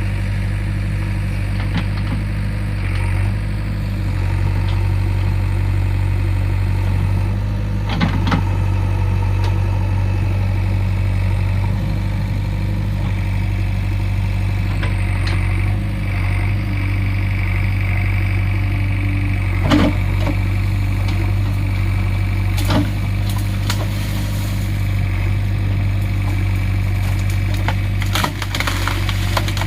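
JCB 3DX backhoe loader's diesel engine running steadily under work, with several sharp cracks and knocks over it. The loudest comes about 20 seconds in.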